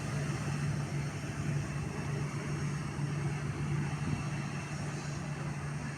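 Steady aircraft engine noise with a constant low hum.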